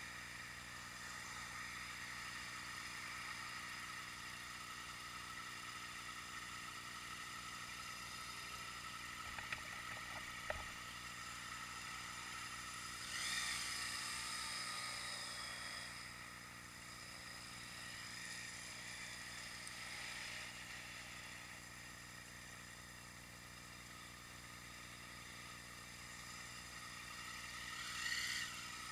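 Road noise heard from a moving ride: a steady hiss laced with faint steady tones. A vehicle goes by about 13 seconds in and again near the end, and two sharp clicks come about ten seconds in.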